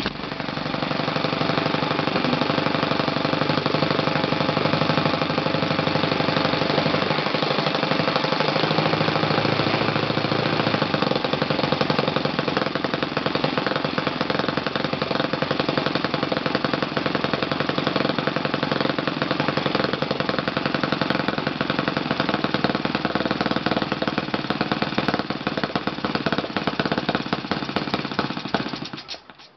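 Kalt FC-1 four-stroke model glow engine running steadily on a test stand, turning a 13x6 propeller, with a fast even firing rhythm. The sound cuts out briefly near the end.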